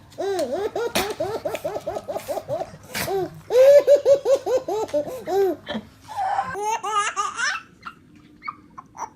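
A young child laughing hard in three bouts of quick, rhythmic, high-pitched laughs, then falling quiet near the end.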